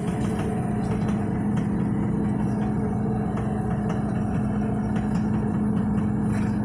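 Snowblower truck's engine running steadily with a strong, even hum, with faint irregular ticks over it.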